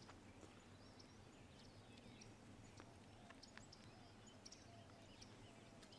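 Near silence: faint, scattered chirps of small birds over a low outdoor background hum.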